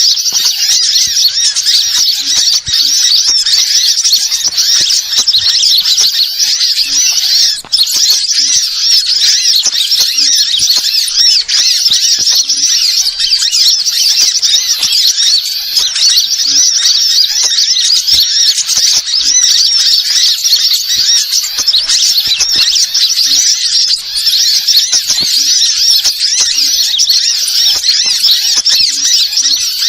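Many small birds chattering and chirping together in a dense, continuous high-pitched stream of overlapping calls.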